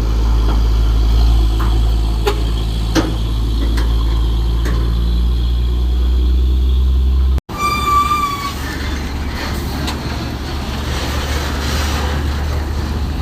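Steady low drone of vehicle engines on the road. After an abrupt cut about seven seconds in, a horn sounds for about a second, then engine and road noise carry on.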